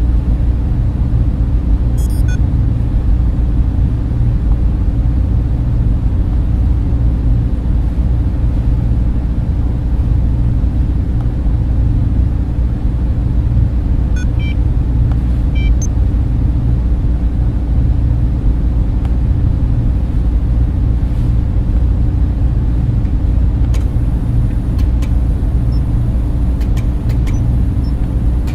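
Server room ambience: many cooling fans running together, a steady, deep, even whoosh that does not change.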